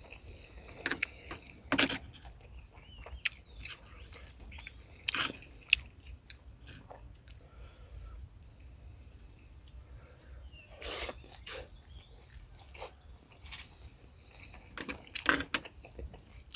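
A person eating close to the microphone: scattered crunches and clicks of chewing and biting, a few louder than the rest, over a steady high, slightly pulsing insect trill.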